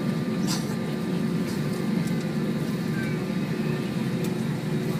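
Airbus A321 jet engines and cabin air system heard from inside the cabin: a steady, even hum with a faint high whine.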